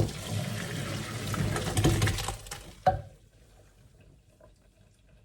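Water running from a tap for about two and a half seconds after a sudden start, then stopping, followed by a single sharp knock.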